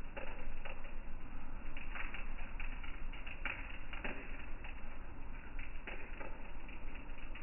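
Rain falling on shallow standing water, a steady patter with irregular louder taps of single drops, a few a second.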